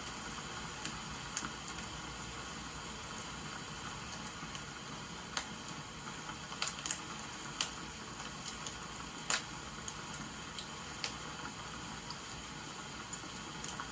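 Wood fire crackling, with irregular sharp pops and snaps over a steady hiss of falling rain.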